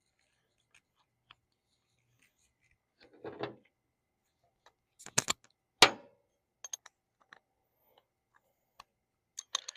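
Hand tools and small metal parts being handled during reassembly of a hydraulic control valve: scattered light clicks, a short rustle about three seconds in, and sharp knocks around five and six seconds in, the one near six the loudest.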